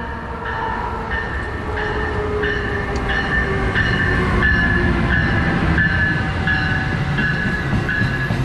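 A train running by on the tracks and growing louder, with a regular beat of about two clicks a second from the wheels and a tone that slowly falls in pitch.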